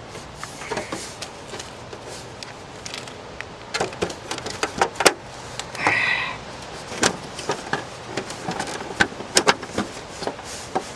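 Irregular clicks, taps and knocks of hands working on the parts of an old bird feeder, with a short squeak about six seconds in.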